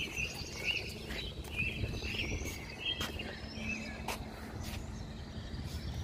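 Small birds chirping, a string of short high calls about every half second, over a low rumbling background and a faint steady hum.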